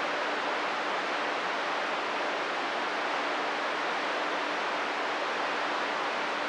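Steady hiss of radio static from a CB radio receiver between transmissions, with a faint steady low tone underneath.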